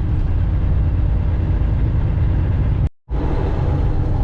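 Steady low rumble of a tractor-trailer's engine and road noise heard from inside the cab while driving, cutting out completely for a moment about three seconds in.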